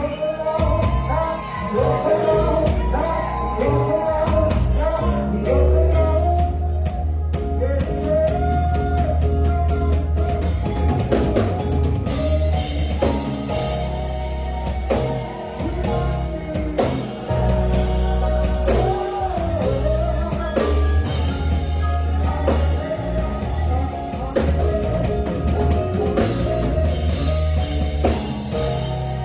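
A singer performing a song live over a band, the voice bending and sliding through long held notes above a heavy bass and drums.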